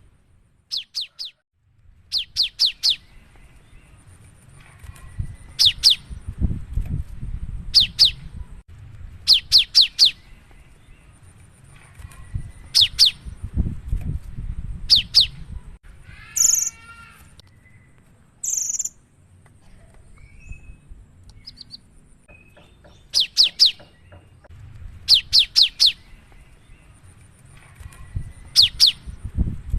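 Cinereous tit singing loudly, in rapid-fire bursts of three to five sharp, quick notes repeated every second or two, with a couple of harsher, scratchier calls midway.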